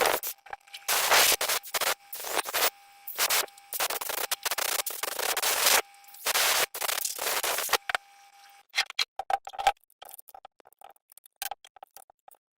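Several long scraping strokes in the first two-thirds, then scattered light clicks and taps.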